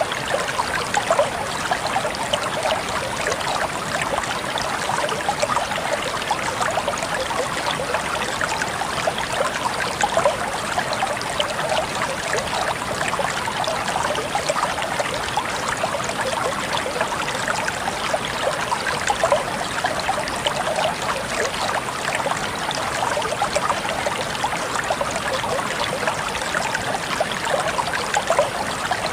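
Water flowing steadily in a stream, a constant splashing and trickling.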